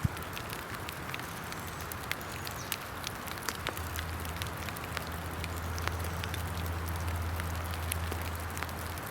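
Steady rain hiss with scattered sharp crackles and pops, and a low steady drone that grows stronger about four seconds in.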